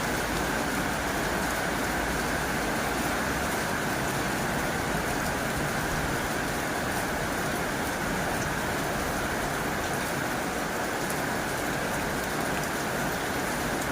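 Heavy rain falling steadily on a tin roof: an even hiss of rain with a fine patter of individual drops.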